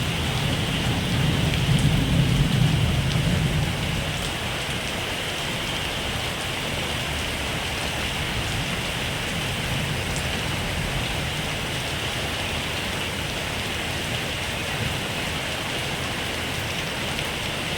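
Heavy rain falling steadily, with a low rumble during the first few seconds that then fades.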